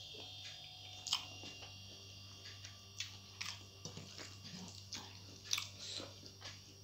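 Close-up eating sounds: chewing a mouthful of boiled egg and fingers working rice on a plate, with a few sharp clicks scattered through, the loudest about a second in and near five and a half seconds. A low steady hum lies underneath.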